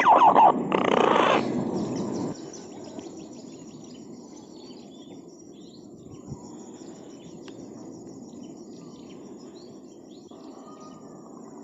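Quiet outdoor ambience: faint bird chirps and insects over a low steady background. A louder, briefly pitched cry-like sound fills the first two seconds before it settles.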